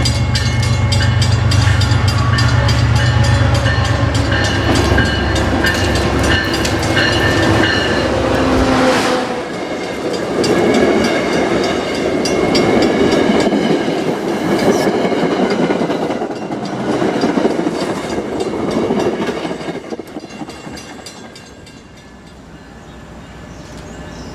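MBTA commuter train passing. A diesel locomotive's engine rumbles loudly for about the first nine seconds, then the coaches roll by with rhythmic wheel clicks, and the sound fades away near the end.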